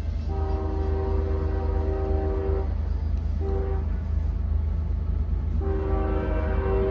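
Locomotive air horn sounding a chord in a long blast, a short blast, then another long blast, the grade-crossing warning pattern, over the steady low rumble of the train.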